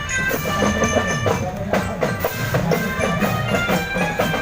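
Marching drum band playing: steady drum strokes with held melody notes over them.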